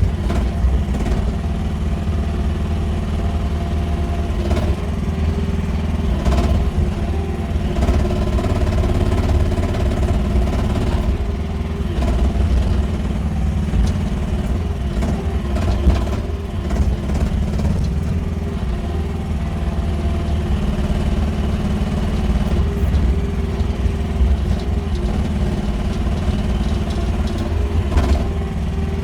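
Small engine of a QH13R mini excavator running steadily under working load, with occasional sharp knocks and clanks.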